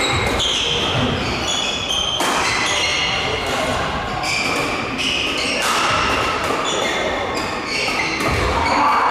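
Men's doubles badminton rally in a sports hall: rackets striking the shuttlecock in a run of sharp hits, court shoes squeaking on the floor, echoing, with voices in the background.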